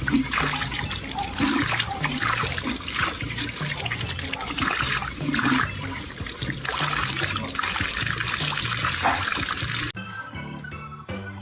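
Running water, a steady rushing hiss, over background music; the water sound cuts off suddenly about ten seconds in.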